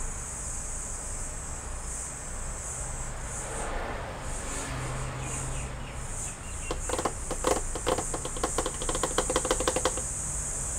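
A steady high-pitched hiss, like insects, runs underneath. About two-thirds of the way in, three seconds of rapid clicking rattle over it, then stop.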